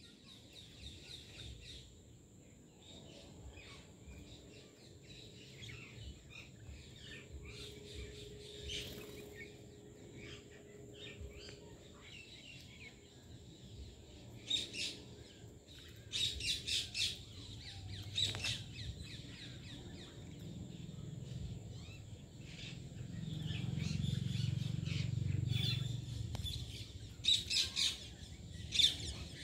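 Small birds chirping in short, rapid bursts that come in clusters, loudest about halfway through and again near the end. A low rumble swells up and fades away about two thirds of the way in.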